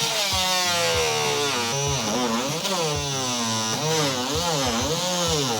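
Electric power tool cutting through the hard plastic housing of an AdBlue (SCR) tank; the motor's pitch dips and recovers again and again as the cutter bites into the plastic.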